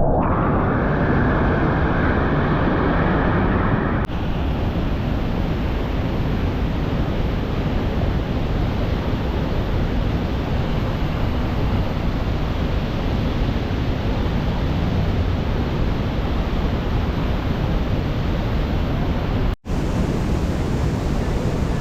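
Rhine Falls waterfall roaring: a loud, steady rush of falling water, with some wind on the microphone. The sound shifts abruptly about 4 seconds in and cuts out for an instant near the end.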